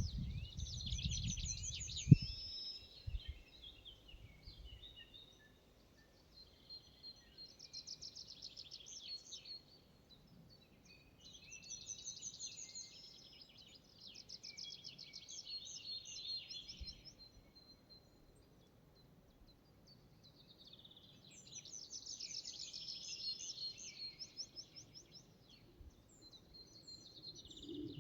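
Songbirds singing in a forest: short trilled phrases repeat every few seconds with brief gaps between them. A low rumble fills the first two seconds and ends in a sharp click.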